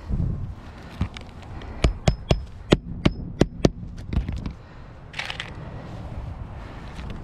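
Hammer nailing asphalt roofing shingles: a quick, uneven run of sharp strikes through the first four seconds or so, then a short rustle about five seconds in.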